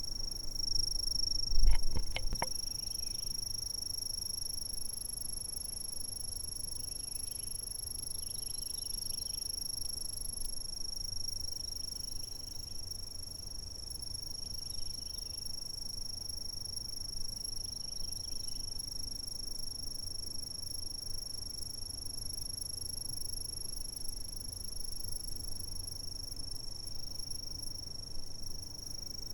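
Insects chirping in a steady, unbroken high-pitched trill, with fainter scattered chirps from other callers. A few sharp knocks about two seconds in are the loudest sound.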